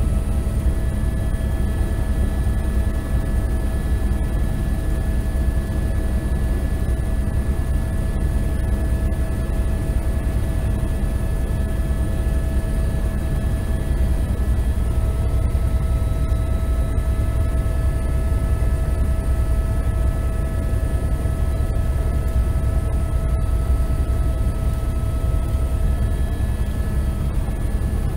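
Helicopter running steadily: a loud, even rotor and engine rumble with constant whining tones above it.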